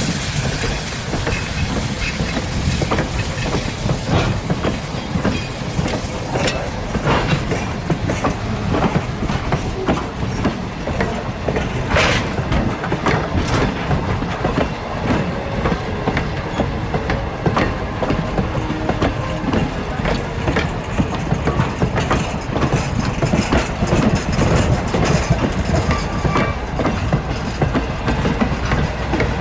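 A train rolling by, its wheels clicking steadily over the rail joints with a continuous rumble.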